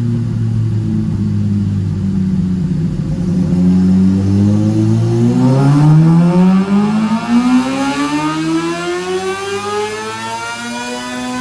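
An engine running, its pitch sagging slightly at first, then revving up smoothly and steadily over about six seconds.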